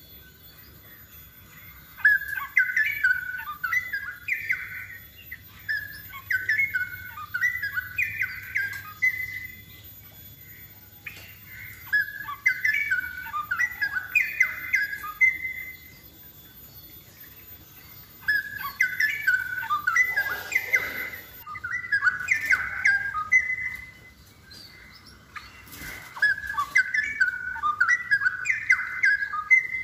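Straw-headed bulbul (cucak rowo) singing loud, quick bubbling warbled phrases, in four bouts of a few seconds each with short pauses between.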